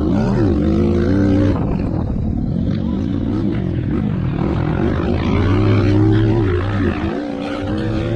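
Motocross bike engines revving, the pitch climbing and dropping again and again with throttle and gear changes.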